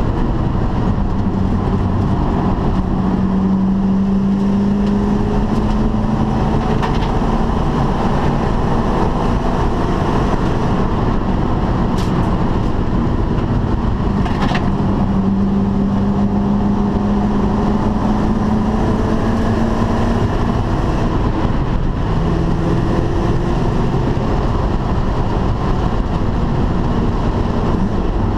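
Ford Mustang GT/CS's V8 heard from inside the cabin under hard driving on track. The engine note climbs slowly through two long pulls, over heavy road and wind noise, with a couple of sharp knocks about halfway through.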